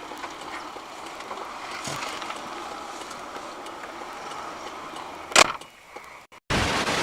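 Steady road and engine noise of a car on the move, as a dashcam records it, then one loud sudden bang about five seconds in: a collision. A short burst of hiss follows near the end.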